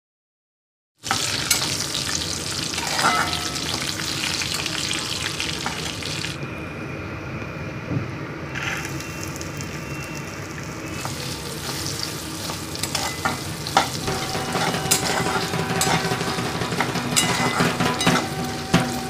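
Oil sizzling in a metal kadai as small pieces of coconut and whole spices fry on medium heat, with a metal spatula stirring and scraping against the pan in scattered clicks. Silent for about the first second.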